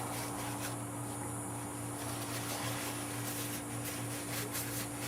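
Room tone: a steady low hum, with a few faint light clicks.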